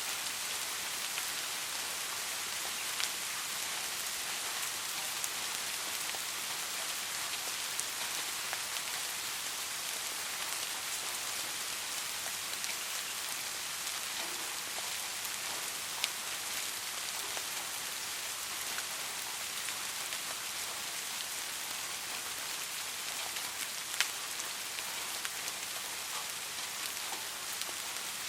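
Steady rain falling on a surface, an even hiss of many drops, with a few louder single drop hits about 3, 16 and 24 seconds in.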